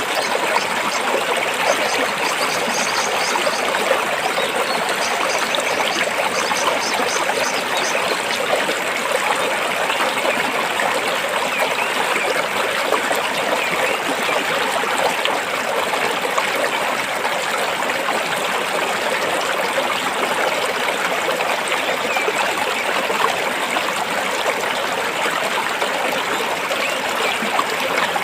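Stream water flowing and trickling over rocks, a steady even rush. A faint high chirping sounds over it during the first several seconds.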